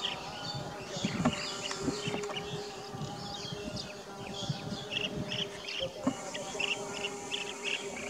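Small birds chirping: a busy run of short, quick calls over a steady low hum, with a high, even insect buzz joining about six seconds in.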